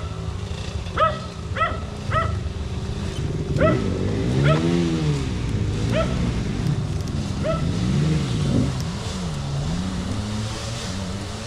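A dog barking about six times, single sharp barks spaced out over the first two-thirds, over an engine running at idle whose pitch rises and falls with light revs.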